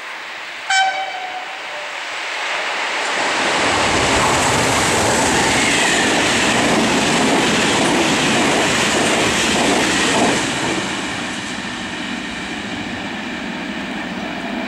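Electric locomotive sounding a short horn blast about a second in. Its regional train then passes at speed: a rising rush and rumble of wheels on rail that holds for several seconds and eases off near the end.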